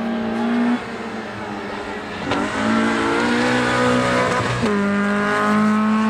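Rally car engine under hard acceleration, its pitch climbing and then dropping sharply at each gear change, about a second in and again near the five-second mark.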